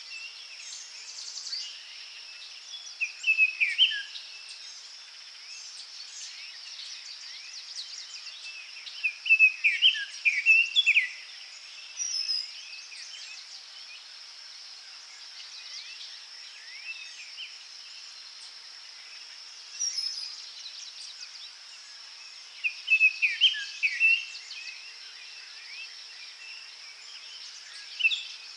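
Forest birds singing in short bursts of quick falling notes, three louder phrases with scattered chirps between, over a steady high-pitched insect drone.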